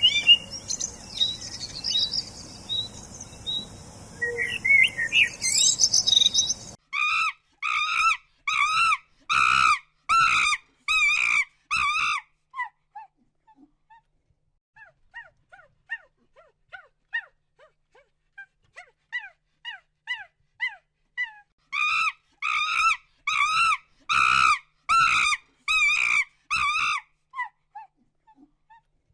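A bird calling in repeated loud, wavering notes, about two a second, in two bouts with softer chirps between.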